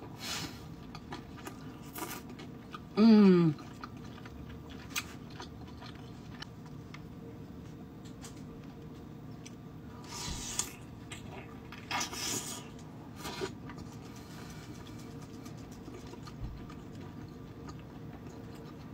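Close-up eating sounds of soup dumplings being bitten and chewed: soft wet, squishy mouth sounds with scattered small clicks and a couple of short wet bursts around ten and twelve seconds in. About three seconds in, a short falling "mm" hum from the eater is the loudest sound.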